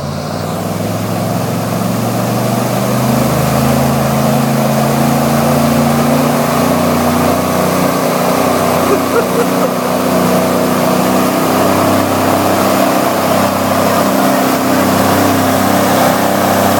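Airboat engine and propeller running at about three-quarter throttle, rising in pitch and loudness over the first few seconds, then holding steady. The propeller's thrust is pushing a diesel pickup in neutral up an incline.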